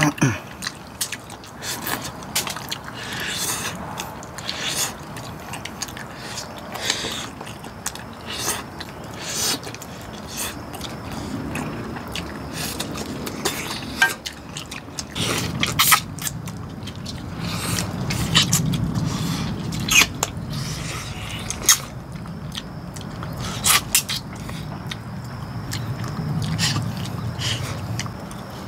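Close-miked eating sounds of two people chewing and biting meat off pork back bones: wet mouth smacks and sharp clicks, many of them, at an uneven pace. A low steady rumble sits underneath from about halfway.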